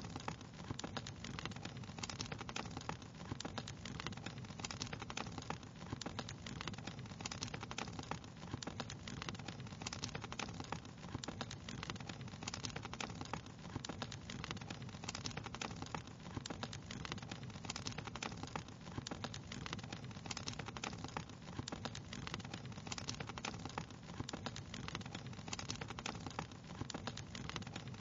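Crackling wood fire: a steady low rumble of burning with many small, irregular pops and snaps throughout.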